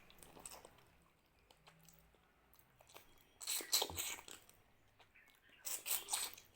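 Close-miked chewing of a mouthful of rice and mutton curry, wet and smacking, coming in two louder spells about three and a half and six seconds in.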